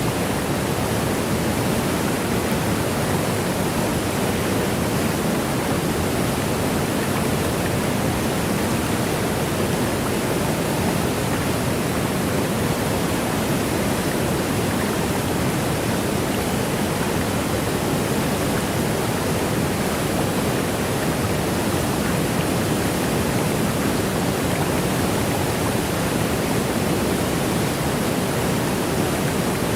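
Waterfall: a steady, even rush of cascading water that holds unchanged throughout.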